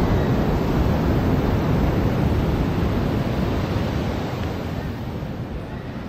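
Ocean surf washing onto a beach: a continuous rush of breaking waves that eases off slightly toward the end, with some wind on the microphone.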